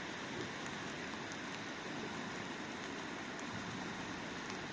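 Rain falling steadily: a dense, even hiss with scattered faint drop ticks.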